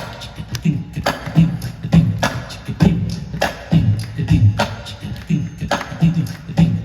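Indian percussion playing a fast rhythmic groove: sharp strikes about every half second with quicker ones between, and low drum tones that bend downward in pitch.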